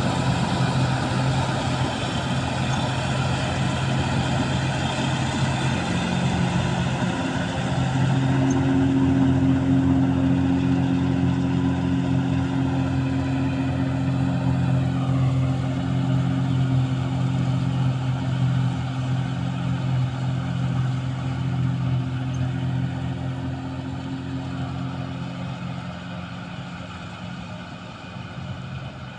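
Engine of a wheat-harvesting machine running steadily, fading over the last few seconds.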